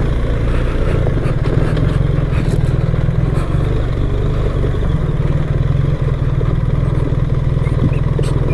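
BMW R 1300 GS boxer-twin engine running steadily at low speed on a dirt trail, heard from on board, with scattered light clicks and knocks.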